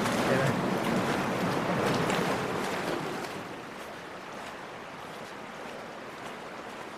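Flowing water of the canyon stream, a steady rush that drops noticeably about halfway through.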